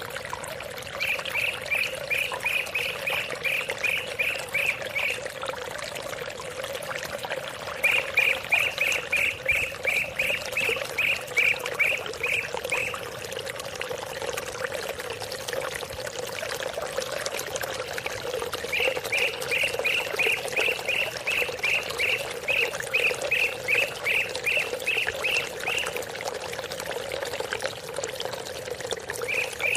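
Steady running water with an animal call in bouts: a rapid string of evenly spaced high notes, about three to four a second, lasting several seconds, then a pause before the next bout.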